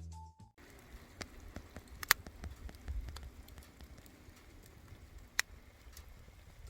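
Wood fire burning, a steady low hiss with scattered sharp crackles and pops.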